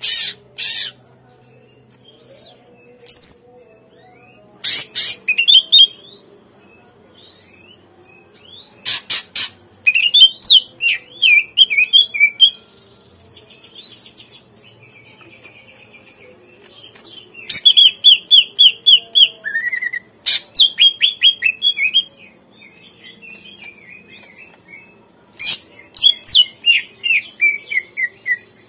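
Green leafbird (cucak ijo) singing in short, loud phrases of fast repeated notes and sharp chips, with brief pauses between phrases.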